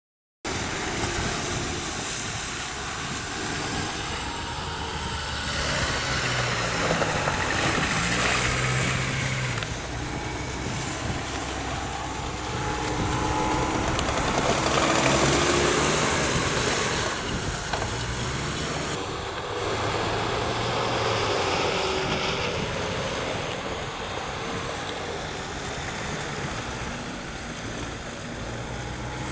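Off-road SUV engine revving up and down as the 4x4 drifts through loose wet sand, over a steady rushing noise. It starts about half a second in.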